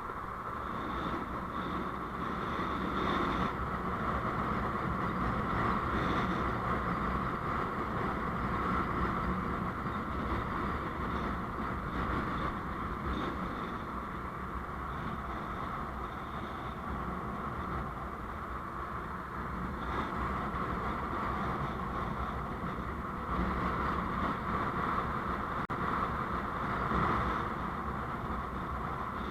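Steady road and engine noise from a moving vehicle on the road, swelling and easing in level a couple of times.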